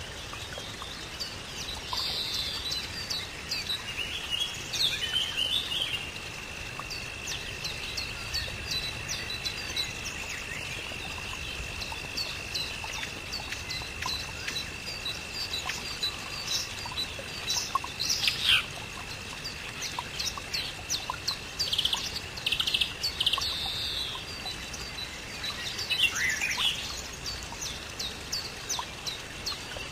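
Birds chirping and calling, many short high calls overlapping, with a steady thin high tone running through most of it.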